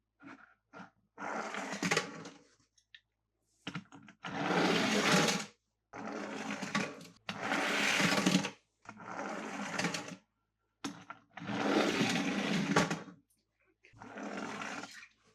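Toy cars and their packaging being handled, heard as about seven rough, noisy bursts of one to one and a half seconds each, with short silences between them.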